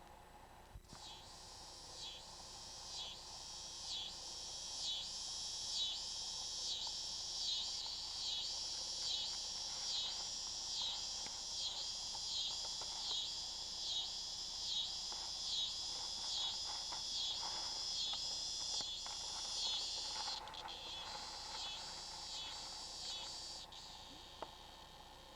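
Insects calling outdoors, a high-pitched chorus that swells in a steady rhythm about once a second. It cuts off suddenly about 20 seconds in, starts again, and stops near the end.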